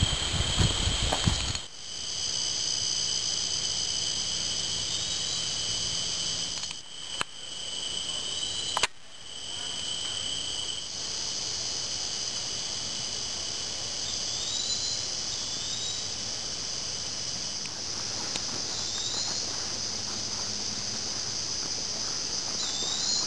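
Steady chorus of insects singing on several high pitches, with a few short rising chirps over it. Low rumbling noise fills the first second and a half, and there are sharp clicks near seven and nine seconds.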